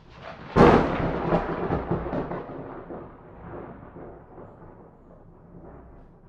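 A thunderclap: a sharp crack about half a second in, then a long rumble that fades away over several seconds.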